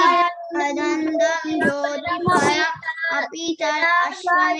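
A child chanting a Sanskrit verse to a sing-song melody, syllables held on steady notes with short breaks between phrases.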